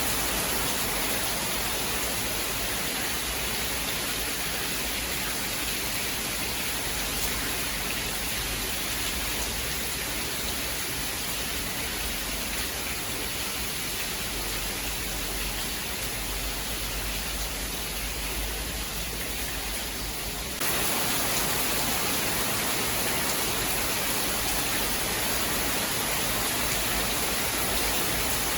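Steady rain hiss with no thunder heard. About two-thirds of the way through, the sound jumps abruptly to a louder, brighter hiss, as at a splice.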